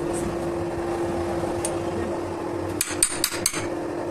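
Steady machine hum, with four quick metal-on-metal knocks, like a hammer or tool striking steel, about three seconds in.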